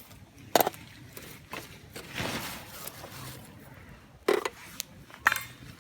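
Wood fire crackling, with a few sharp pops from the burning wood and a soft rush of flame in between.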